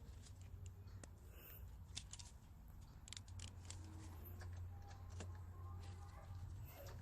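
Faint scattered clicks and light metal taps of hand work on the serpentine belt with its tensioner released, over a low steady hum.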